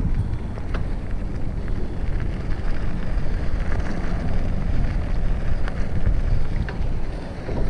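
Wind buffeting the microphone of a GoPro action camera carried on a moving mountain bike: a steady low rumble with a few faint clicks and rattles.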